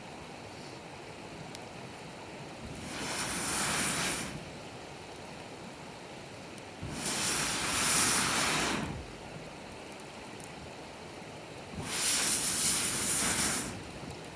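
Three whooshing swells of rushing air, each building and fading over about two seconds, a few seconds apart, over a steady low hiss.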